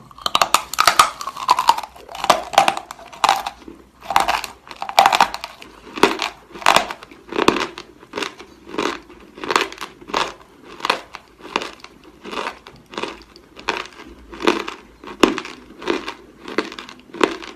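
Close-up chewing of a mouthful of chalk: dry, crunchy chewing, dense and irregular for the first few seconds, then settling into a steady rhythm of about one and a half chews a second.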